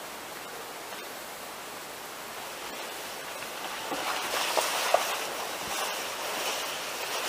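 Steady rushing noise of a moving train heard at the carriage window, growing louder about four seconds in.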